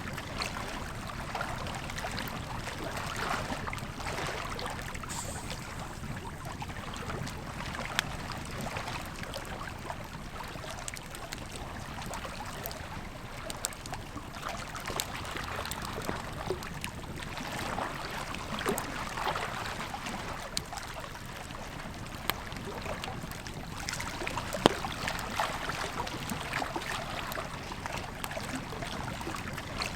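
Campfire crackling with scattered sharp pops over the steady rush of a flowing river. The loudest pops come about 8 seconds and 25 seconds in.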